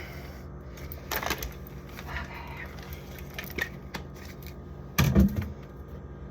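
Plastic creamer bottles and other fridge items being set down and shifted on the fridge shelves: a sharp knock about a second in, small clicks and rattles, and a heavier thud about five seconds in.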